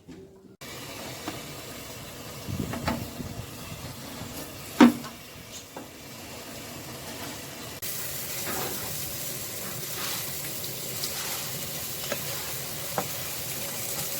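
Tilapia sizzling as it grills: a steady hiss with scattered clicks and one sharp knock about five seconds in. The hiss gets louder about eight seconds in.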